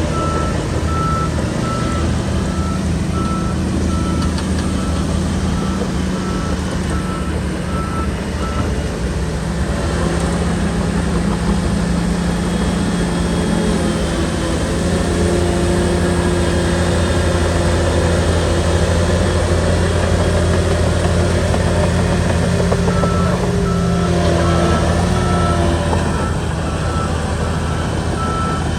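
SHANTUI bulldozer's diesel engine running steadily, with a reversing alarm beeping in an even rhythm for roughly the first third. The beeps stop while the engine runs a little louder and works harder, then they start again near the end.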